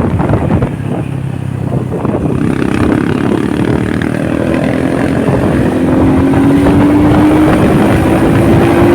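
Motorcycle engine running under way with road and wind noise; the engine eases off about half a second in, then its note climbs steadily as the bike accelerates.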